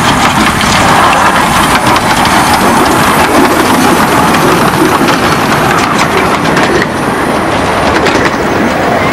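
A miniature light-railway train running past, loud and steady, its wheels clicking over the rail joints.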